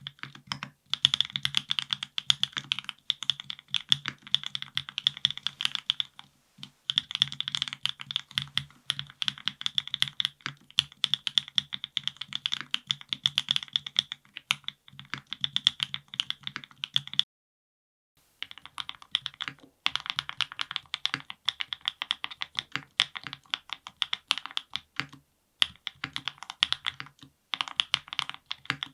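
Fast, continuous typing on a NEO70 custom mechanical keyboard with lubed Gateron Milkshake linear switches and GMK keycaps. For the first 17 seconds or so the build has a carbon plate and no foam. After a brief break, the typing continues on the build with a polycarbonate plate, full foam and an o-ring mount.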